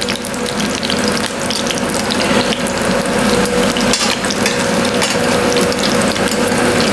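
Lavash triangles filled with ham and cheese frying in hot vegetable oil in a pan: a dense, continuous crackling of the oil around the pieces.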